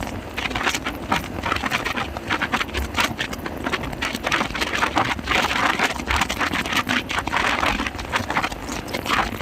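Motorcycle riding at highway speed: a dense, steady rush of wind and road noise broken by rapid, irregular crackles.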